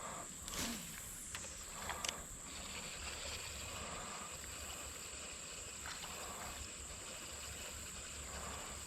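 Quiet creek-side ambience: a steady high-pitched insect drone, with a few light knocks in the first two seconds and faint kayak and water sounds.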